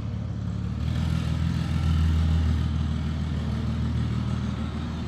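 Car engine idling steadily, a deep even rumble that swells a little about two seconds in.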